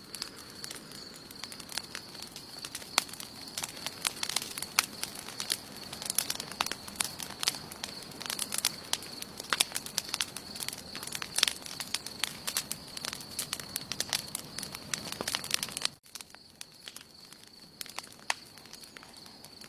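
Wood fire burning, crackling and popping with dense, irregular snaps. About 16 s in the sound drops suddenly and the crackles become sparser, over a steady high thin tone.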